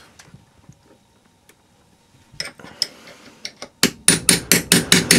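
A few faint clicks, then a quick, even run of sharp metal-on-metal knocks, about four a second, starting a little under four seconds in.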